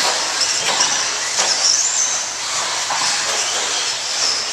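Several radio-controlled stadium trucks racing, their motors whining up and down in pitch over a steady hiss.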